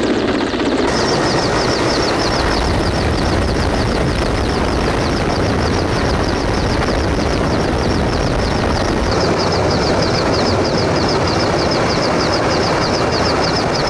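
Helicopter running steadily, its rotor giving a fast, even pulse over a constant loud engine noise. The sound changes abruptly about a second in and again around nine seconds.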